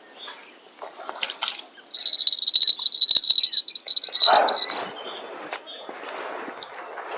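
An insect, cricket-like, trilling loudly close by: a high, rapidly pulsed buzz lasting about two seconds in the middle, ending with a short lower sound.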